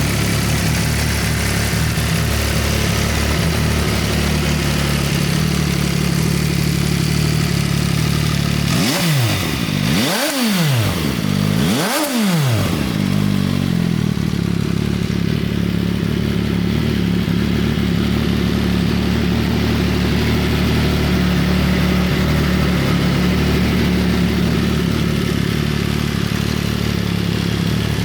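MV Agusta Dragster 800's three-cylinder engine idling steadily, blipped twice about a third of the way in, rising and falling in pitch each time, then settling back to idle.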